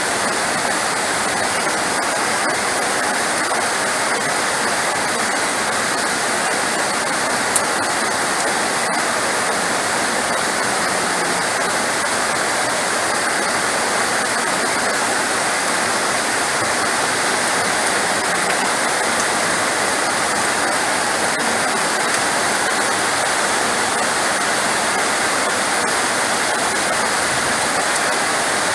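Heavy rain falling in a steady, dense hiss, with one brief click about seven and a half seconds in.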